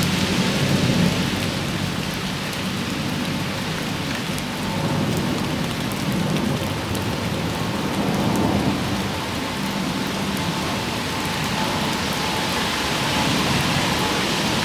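Rain falling steadily, an even hiss, with a low rumble under it near the start.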